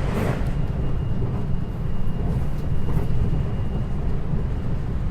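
Interior running noise of a 521 series electric multiple unit motor car under way: a steady low rumble of wheels on rail. A faint steady high tone runs through most of it.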